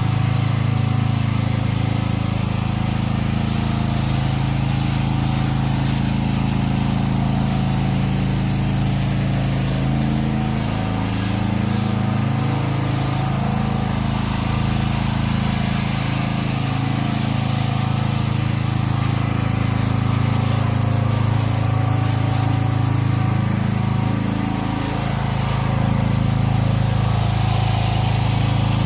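Pressure-washing equipment's engine running steadily while solution is sprayed, a hiss over the engine hum. The engine note shifts briefly about ten seconds in and again near twenty-five seconds.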